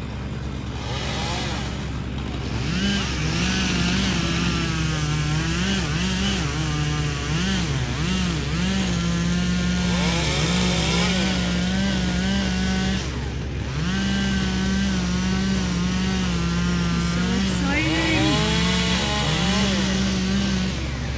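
Chainsaw running at high revs, its pitch dipping and recovering again and again as it cuts through the felled tree, dropping off briefly twice. A steady low machine drone runs underneath.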